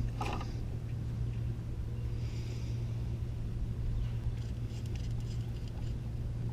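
A steady low hum, with faint light metal clicks and rustles of water pump bolts being threaded in by hand.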